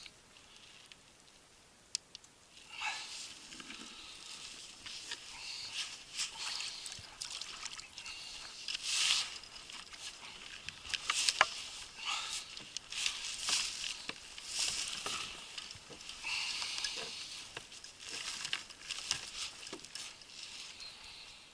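Irregular water splashes and drips with scattered sharp clicks and knocks.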